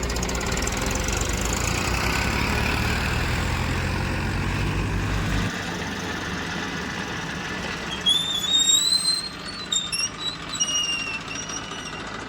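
Diesel engine running steadily, its low drone dropping off about five seconds in. Over the last few seconds a run of short, high squeaks that rise and fall in pitch, louder than the engine.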